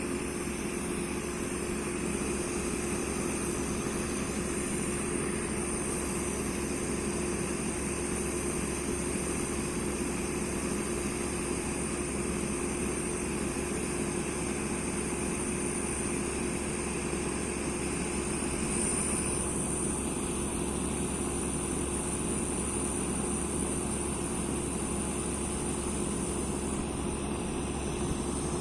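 Electric fan heater running steadily: a constant whirring rush of air with a steady hum. Its higher part shifts slightly about two-thirds of the way through.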